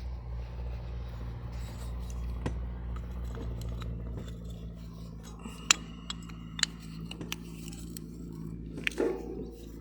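Scattered metal clicks and scrapes of tools and parts being handled during work on a hydraulic control valve, over a steady low hum. The sharpest clicks come in the second half.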